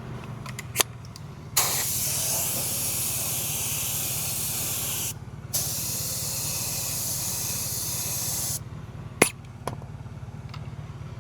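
Clear coat being sprayed onto a repaired alloy wheel in two long passes of hiss with a short break between them. Sharp clicks come just before the first pass and just after the second.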